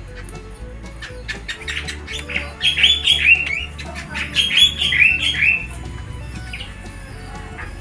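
Starling calling: two runs of loud, falling whistled notes, each a little over a second long, amid scattered sharp clicks and chatter.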